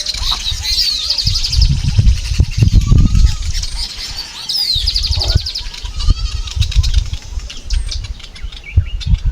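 Small birds chirping, with two fast high trills, one near the start and one about halfway, over loud low rumbling.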